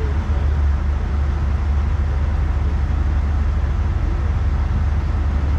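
Steady low rumble of an idling heavy diesel engine, with an even wash of noise over it and no change throughout.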